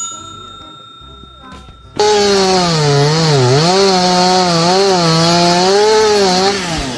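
A fainter steady ringing tone, then about two seconds in a loud motor starts abruptly and runs for about four and a half seconds, its low pitch wavering up and down over a hiss, before cutting off shortly before the end.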